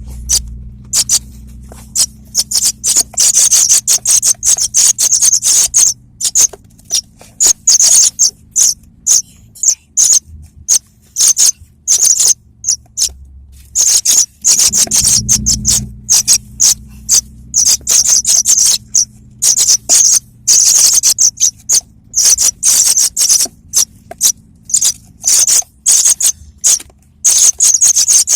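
Young paddyfield pipits (apung tanah) calling: rapid runs of short, high-pitched chirps in quick bursts with brief pauses, over a low steady hum.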